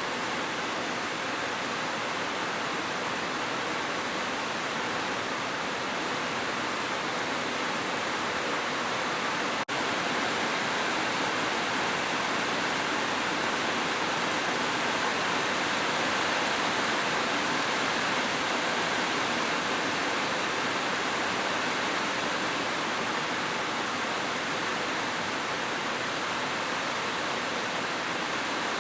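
Heavy rain falling steadily, an even dense hiss without separate drops standing out, with a momentary dropout about ten seconds in.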